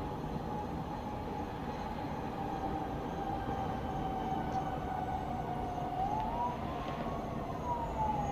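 Emergency vehicle siren wailing, its pitch slowly sinking, then rising about six seconds in and falling again, over a steady low rumble of town traffic.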